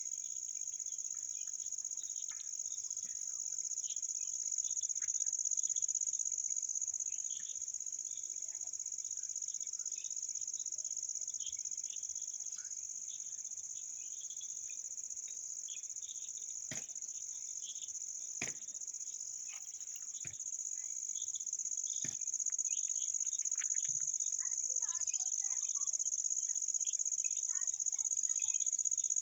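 Steady, unbroken high-pitched drone of an insect chorus, with scattered short chirps beneath it and a few sharp clicks in the middle.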